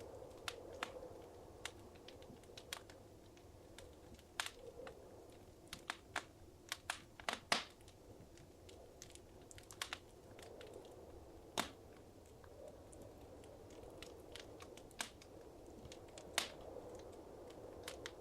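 Wood fire crackling in a fireplace: irregular sharp pops and snaps over a soft steady hiss, with a flurry of pops in the middle.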